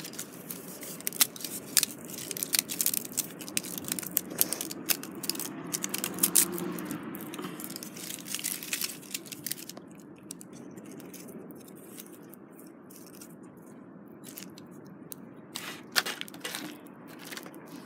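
Small wood fire of twigs crackling and snapping, with dense sharp crackles for the first ten seconds or so, then a quieter hiss with a few more snaps near the end.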